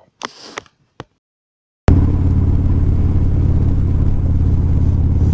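Near silence for about the first two seconds, then a cut straight into a motorcycle engine running steadily at cruising speed, a constant low, even note.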